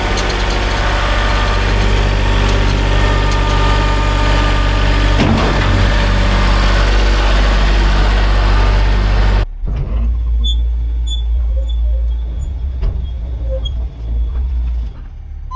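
Kubota L3901 tractor's diesel engine running steadily. About nine and a half seconds in, the sound cuts abruptly to a quieter low engine rumble with a few short high chirps.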